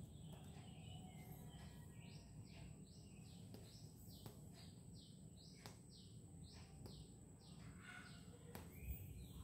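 Faint bird chirping: a run of short, high, falling notes, about two a second, with a few faint clicks.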